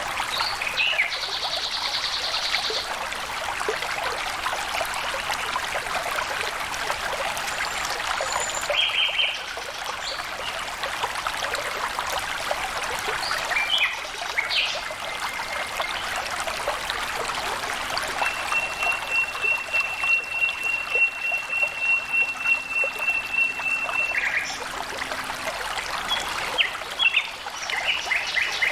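Water flowing and trickling steadily in a stream. Short high bird chirps come and go over it, and a long, even, high trill runs for about six seconds midway.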